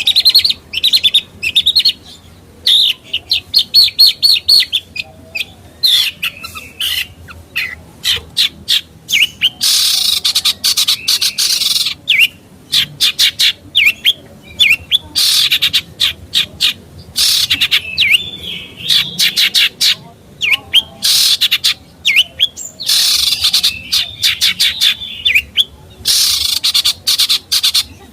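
A songbird singing a fast, continuous chattering song of quick chirps and trills, broken by several longer harsh, rasping phrases.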